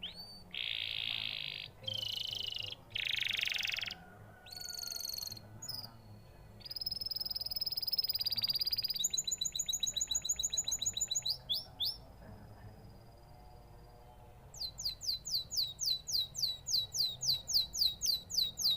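Canary singing a long, varied song: buzzy raspy phrases, a held whistle, then fast trills. Near the end comes a run of rapid repeated sweeping notes, about five a second.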